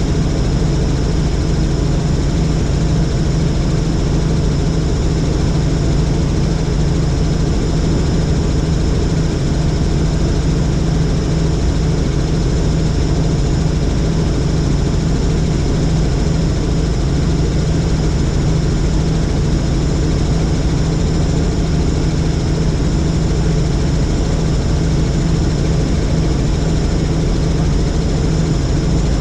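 Helicopter in flight: a steady, loud drone of turbine and rotor with a strong low hum, holding level without change.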